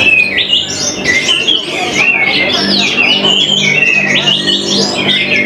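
Orange-headed thrushes (anis merah) singing loudly at a bird-singing contest: rapid, varied whistled phrases from several birds overlap without a break. A low steady hum runs beneath.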